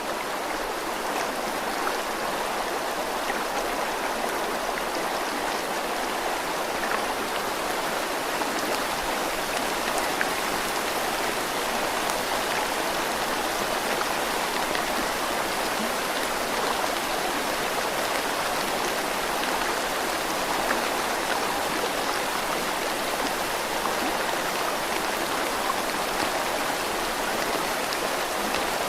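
Steady rushing water: an even hiss with small splashing ticks scattered through it, unchanging throughout.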